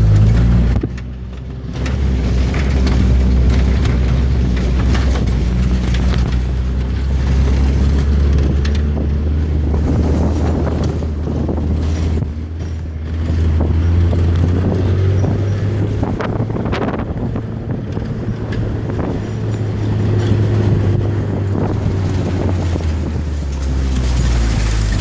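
An engine running steadily with a deep, even rumble, with wind buffeting the microphone.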